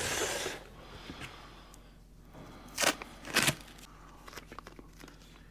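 Tape being pulled and torn off a roll for a label, with two short loud rips about three seconds in, between quieter rustling.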